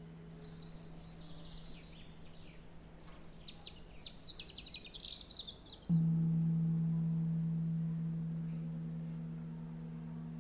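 A low, steady singing-bowl tone rings on while birds chirp and trill over it. About six seconds in, the bowl is struck again: a sudden, fuller ringing tone with a few overtones that slowly fades.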